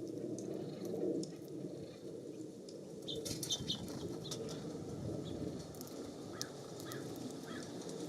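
Small birds at a feeder: a cluster of short, high chirps and clicks about three seconds in and a few short calls near the end, over a steady low rushing background.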